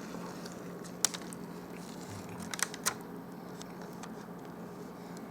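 Paper sandwich wrapper being handled: a few short, sharp crinkles and clicks, one about a second in and a quick cluster near the middle, over a steady low hum.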